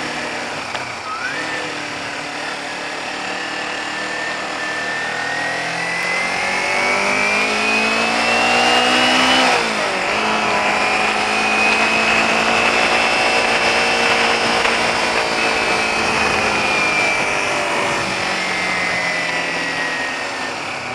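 Motorcycle engine under way, heard from the bike: revs climb steadily for several seconds, drop sharply at a gear change about ten seconds in, then hold and slowly fall off.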